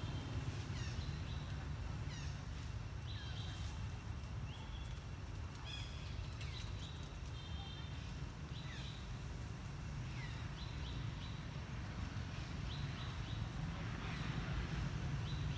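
Birds chirping in short high calls and quick falling notes, repeating every second or so, over a steady low rumble.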